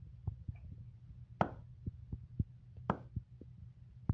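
Hand claps aimed at an Arduino sound sensor to switch an LED on: three sharp claps about a second and a half apart, with softer taps between them, over a low steady hum.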